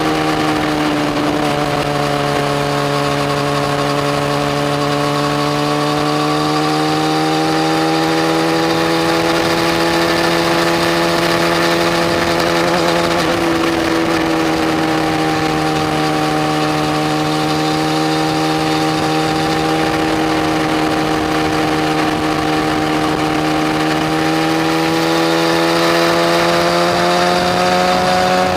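Yamaha FZ1 motorcycle's inline-four engine running under way at fairly steady revs, its pitch sagging slightly and then rising again several times, over a steady rush of wind noise.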